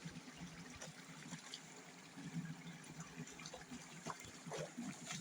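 Faint trickling and gurgling of running stream water, a sound like jugs of water being poured into a toilet.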